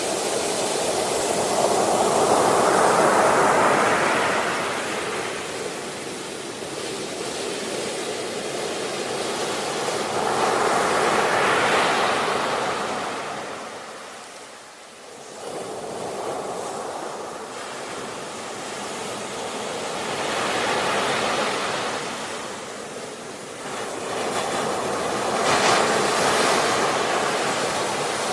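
Ocean waves breaking and washing up on a shore: four surges of surf, several seconds apart, each swelling and ebbing away, with a deeper lull about halfway through.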